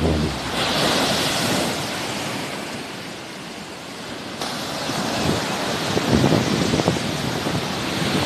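Sea waves washing on the shore. The wash swells about a second in, eases off, then builds again about halfway through. Gusts of wind buffet the microphone with low rumbles near the end.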